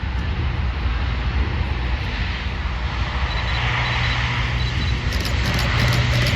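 Airplane engine running, a steady drone that grows gradually louder as the aircraft nears.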